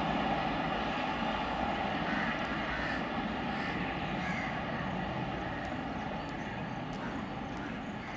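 Rumble of a double-decker express train running away down the line, fading slowly as it recedes.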